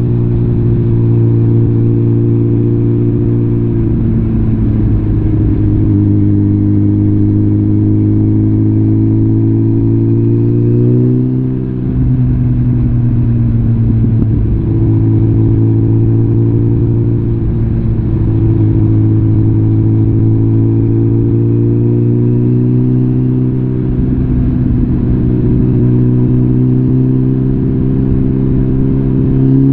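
Suzuki GSF650 Bandit's inline-four engine through a full Arrow exhaust system, running at a steady cruise with its note drifting slowly up and down. About eleven seconds in the sound briefly dips, and at the very end the note climbs as the bike accelerates.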